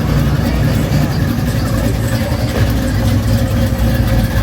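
Car engine running loudly, a steady deep low-pitched sound with noise over it.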